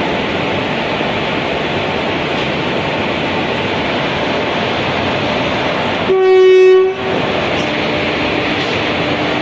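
Train running with a steady rumble, and one short horn blast from the train about six seconds in, held on a single pitch for under a second.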